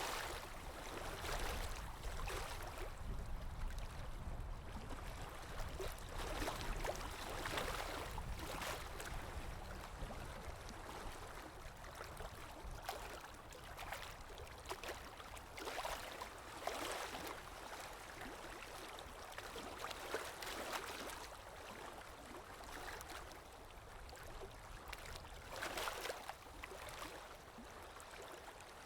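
Water lapping in small, irregular wavelets, each surge coming every second or two, over a low steady rumble of wind.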